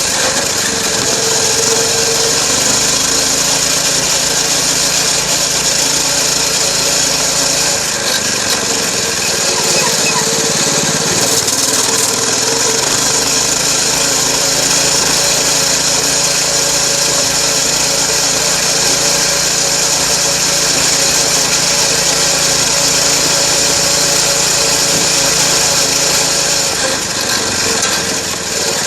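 Dirt bike engine running while riding, mostly at a steady pitch, dipping and climbing back once about ten seconds in as the throttle eases off and opens again.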